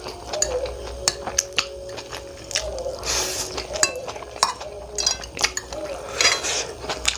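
Cutlery clicking and clinking against a dish while eating Maggi noodles, many sharp taps, with two short noisy eating sounds about three and six seconds in.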